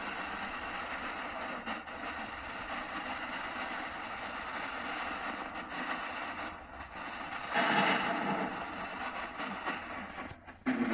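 Ghost box (spirit box) sweeping through radio stations: a steady hiss of static chopped by brief breaks, with a louder burst about two-thirds of the way through.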